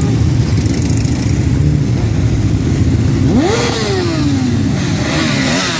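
Motorcycle engine revving: about three seconds in, the pitch climbs sharply, then falls away over about a second, with a second, shorter rev near the end, over a steady low engine rumble.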